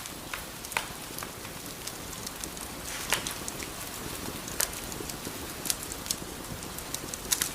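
Wood fire crackling: a steady hiss with scattered sharp pops, the loudest about three seconds in.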